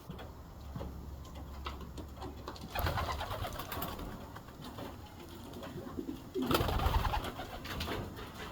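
Young racing pigeons cooing in their loft. Two louder, noisier stretches come in about three seconds and six and a half seconds in.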